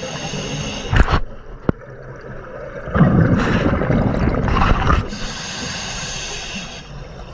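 Underwater scuba breathing through a regulator: a loud bubbling rush of exhaled bubbles in the middle, with hissy breathing either side. Two sharp clicks about a second in.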